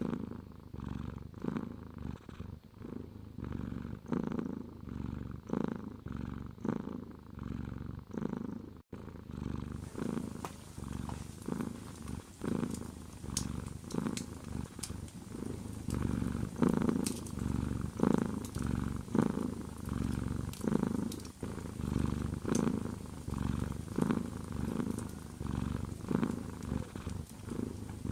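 Domestic cat purring close up, a low rumble that swells and fades about once a second with each breath. From about ten seconds in, faint sharp crackles sound over it.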